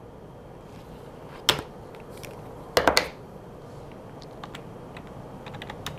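Clicking at a computer while charts are brought up: one sharp click about one and a half seconds in, a quick cluster of clicks near three seconds, then a few faint ticks.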